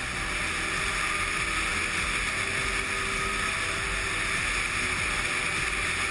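Steady rush of wind and road noise from a motorcycle on the move, with a low rumble underneath.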